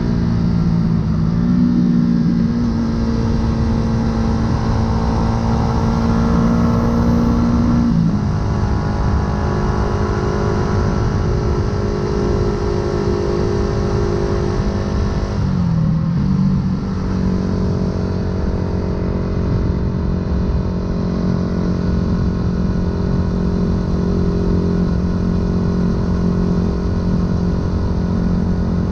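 Yamaha YZF-R125's single-cylinder four-stroke engine running through an unbranded full aftermarket exhaust, heard from the rider's position while riding. The revs hold mostly steady with a few changes: a step up about a second and a half in, a drop about eight seconds in, and a brief dip and recovery about halfway through, over a constant rush of wind and road noise.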